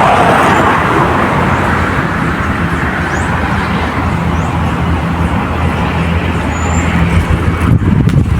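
An engine running steadily: a low hum with a rushing noise over it, growing louder near the end.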